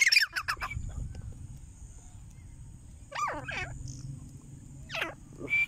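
Grey francolin calling in short, sharp bouts. There is a quick run of notes at the start, a pair of downward-sliding notes about three seconds in, and single notes near the end, over a low rumble.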